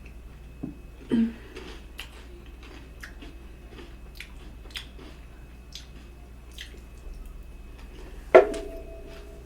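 Close-miked chewing and wet mouth sounds with scattered small clicks and smacks. Near the end comes one sharp clink that rings briefly.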